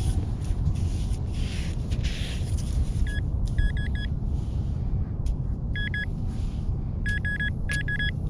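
Metal detector beeping: short high electronic beeps in quick bursts of two to four, repeating several times from about three seconds in as it zeroes in on a buried metal target, which turns out to be a bottle cap. A steady low rumble runs underneath.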